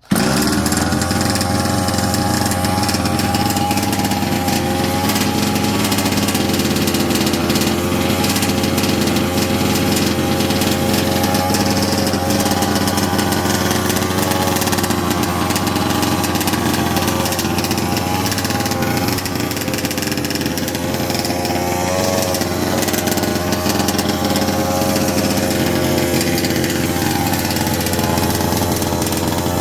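36cc Rovan two-stroke engine of a 1/5-scale RC truck, restarted warm with the choke off, catches at once and runs steadily at idle, its pitch holding nearly level.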